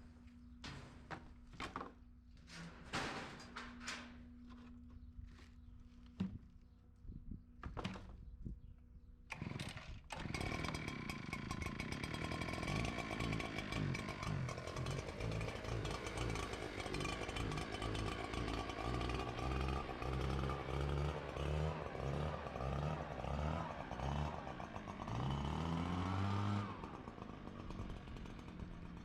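Scattered sharp clicks, then about ten seconds in a small gas engine of handheld lawn equipment starts running, its pitch rising and falling as it is revved, and it drops back to a lower speed near the end.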